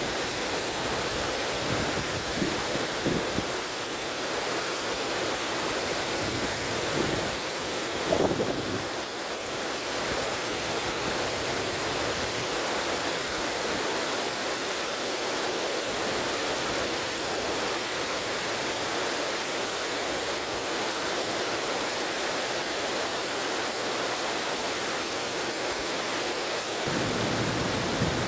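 A river flowing with a steady rush of water, with wind gusts buffeting the microphone a couple of times early on as low rumbles.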